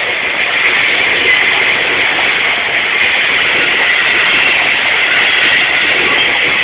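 A Seibu Line train running past: a loud, steady rushing noise.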